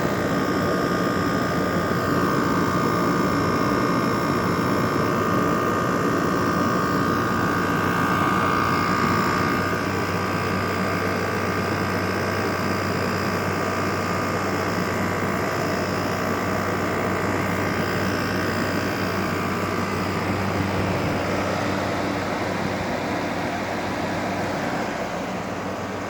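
LG window air conditioner running steadily: a continuous fan whoosh with a low hum and a higher whine on top.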